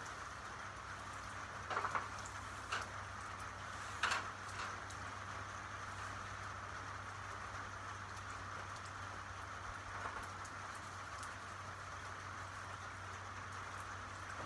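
Steady rain falling on a surface, with a few louder single drips about two, three and four seconds in.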